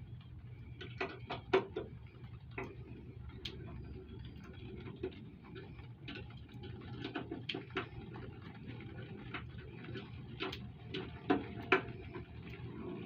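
Irregular small metal clicks and taps, some in quick clusters, as the luggage rack is set on the motorcycle's sissy bar and its bolts and lock washers are handled and threaded.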